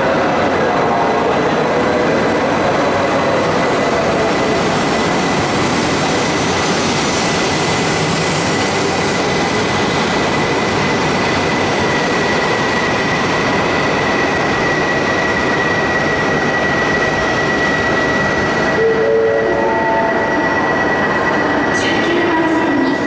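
Shinkansen train moving through an underground station platform: a loud, steady rumble of running noise, with a high, thin whine that grows stronger through the second half and a few short stepped tones near the end.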